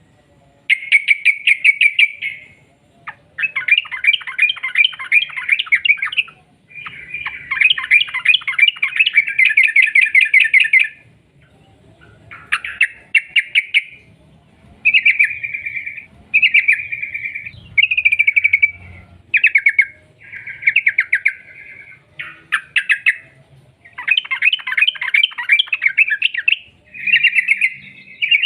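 Yellow-vented bulbul (trucuk) singing gacor, with long rapid runs of bubbling, stuttering notes (ropel), in a string of phrases from half a second to three seconds long with short pauses between them.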